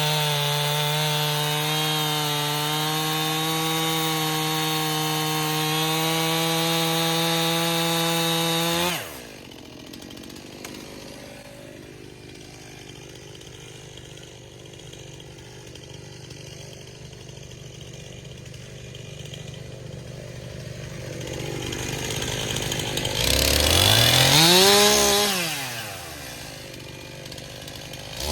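Two-stroke gas chainsaw held at full throttle through a cut for about nine seconds, then dropping suddenly to idle. Near the end it is revved up once and let fall back.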